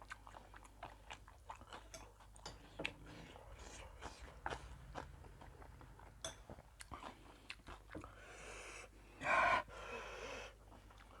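A person chewing close to the microphone, with many small wet mouth clicks and smacks, eating spicy wheat-vermicelli salad with chicken feet. About nine seconds in there is a louder short burst of noise.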